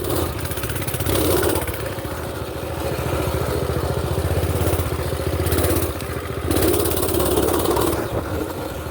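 Small single-cylinder mini bike engine running steadily, getting briefly louder about a second in and again for a couple of seconds past the middle.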